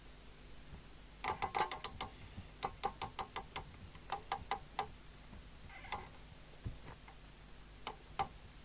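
Sharp mechanical clicks, a quick run of about four or five a second for a few seconds and then a few single clicks: a CB radio's rotary channel selector being turned through its detents.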